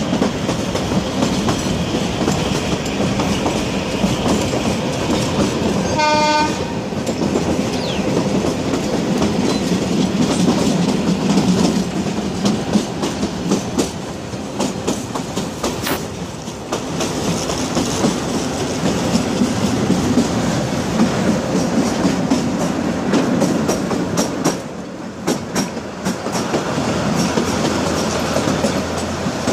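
Kalka–Shimla narrow-gauge train heard from inside a passenger coach, running with a steady rumble and clatter of wheels on the rails. A short horn blast sounds about six seconds in.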